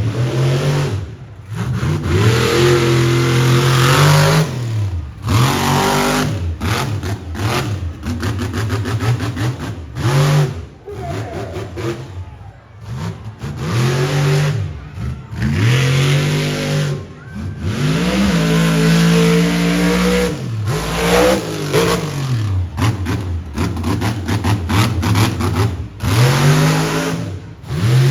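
Monster truck engine revving hard, its pitch climbing and falling over and over as the throttle is stabbed and released. The sound cuts out in short gaps, with a quick run of throttle chops about a third of the way through.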